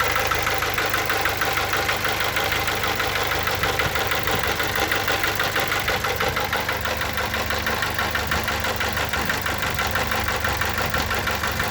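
Idling engine of a Ford Escape / Mazda Tribute / Ford Maverick SUV with a fast, steady, rhythmic knocking that repeats evenly. The owner cannot identify the knock's cause.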